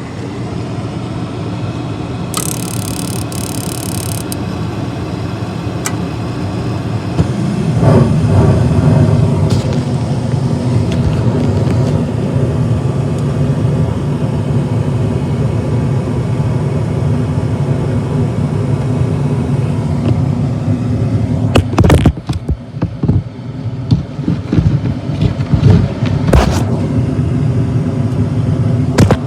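Gas furnace running with a steady mechanical hum. A low rumble swells up about seven seconds in, and several sharp knocks and clatters come in the last third.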